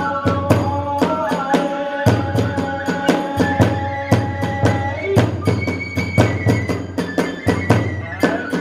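Kagura hayashi ensemble playing. A bamboo flute holds long notes, stepping up to a higher note about five seconds in, over rapid, steady strokes of a large drum and clashing hand cymbals.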